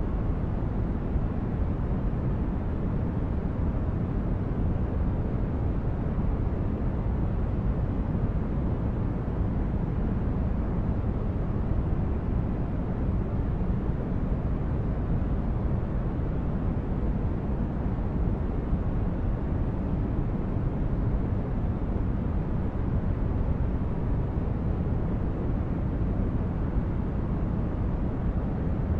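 Steady ambient noise for sleep, a deep even rumble with a softer hiss above it, unchanging throughout.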